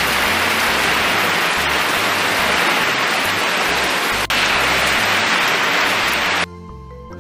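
Heavy rain pouring down, a loud even hiss that cuts off abruptly about six and a half seconds in, with background music underneath.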